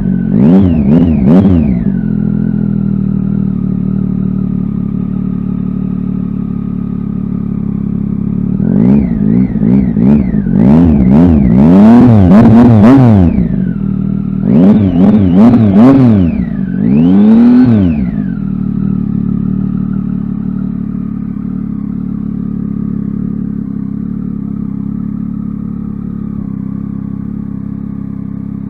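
Triumph Tiger XCx motorcycle's three-cylinder engine running through a freshly fitted Danmoto aftermarket exhaust, idling steadily and blipped on the throttle: a few quick revs right at the start, a run of revs from about nine to thirteen seconds in, a few more quick blips around fifteen seconds, and one longer rev near eighteen seconds before it settles back to idle.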